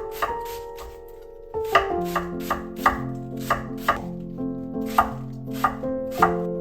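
Knife chopping food on a cutting board in a quick, fairly even series of strokes, with a pause of about a second near the start, over soft background music.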